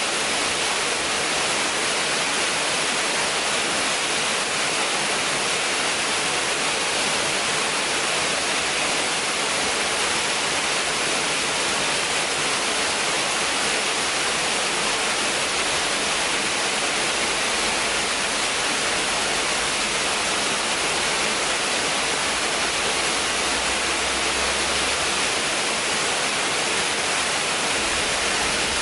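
Waterfall rushing in a steady, unbroken roar of falling water, heaviest in its hissing upper range, with a faint low rumble for a few seconds past the middle.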